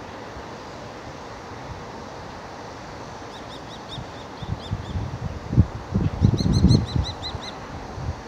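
A small bird chirping in short, high, repeated notes: one run about three seconds in, then a quicker, louder run near the end, over a steady hiss. Gusts of wind buffet the microphone in the second half.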